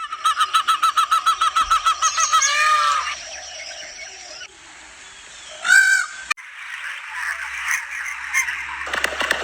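Animal calls: a fast run of pitched pulsed calls ending in a falling call, then one louder single call a little before six seconds in. A sharp click follows and a steady hiss fills the rest.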